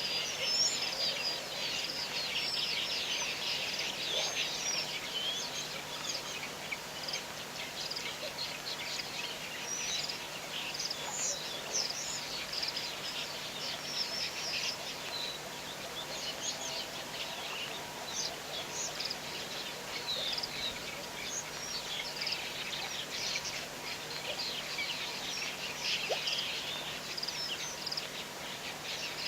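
A dense chorus of many small birds chirping and twittering continuously, with calls overlapping.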